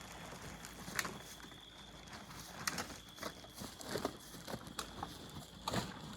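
Irregular crunching and crackling in dry leaves and debris, with sharp knocks about a second in, near the middle and near the end.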